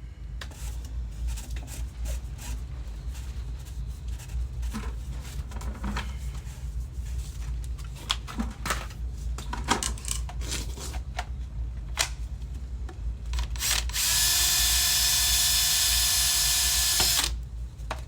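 Scattered clicks and knocks of hand work over a steady low rumble, then a power drill runs steadily for about three seconds near the end and stops.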